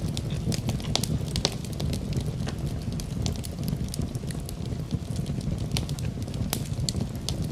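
Campfire burning, with frequent sharp irregular crackles and pops over a steady low rumble of the flames.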